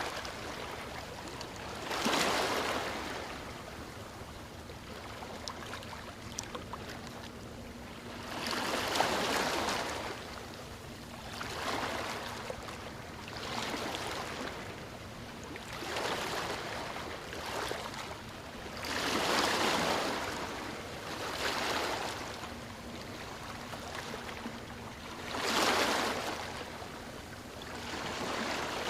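Small waves washing in: a rush of water swells and fades every two to three seconds over a steady low hiss.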